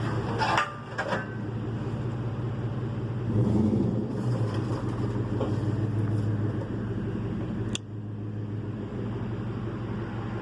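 Motor vehicle engine running steadily under load while the hoist is pulled, with one sharp click about three-quarters of the way through, after which it runs a little quieter.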